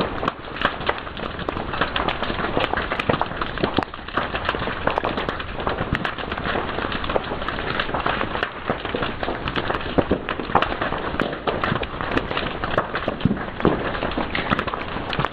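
Fire crackling and popping: a dense, irregular run of sharp snaps, several a second, over a steady hiss.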